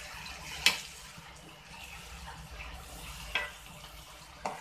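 Thick tomato-onion masala sizzling and bubbling in a non-stick kadai while it is stirred and fried with a silicone spatula, just after tomato puree has been added. A few sharp taps of the spatula against the pan: the loudest just under a second in, two more near the end.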